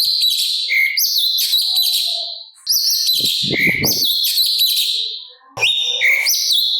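Cucak cungkok bulbul singing loud, rapid chattering song with quick rising whistles, in three long bursts separated by brief pauses.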